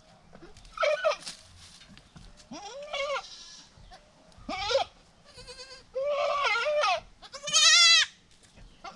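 Newborn goat kids bleating: five high calls a second or so apart, the last one the loudest, with a quavering pitch.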